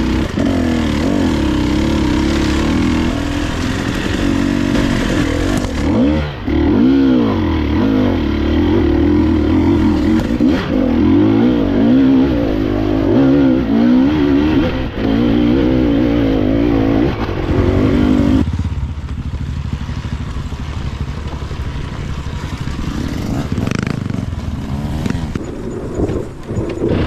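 Husqvarna TE 300i two-stroke dirt bike engine revving, its pitch rising and falling over and over with the throttle. About eighteen seconds in it drops to a lower, quieter run.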